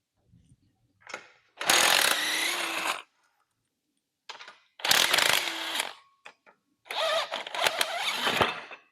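A handheld power tool runs in three bursts of about a second each, spinning bolts out.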